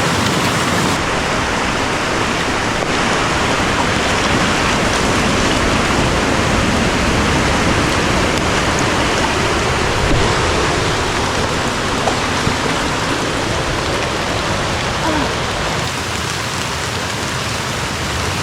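Heavy rain pouring down, a loud, dense, steady hiss.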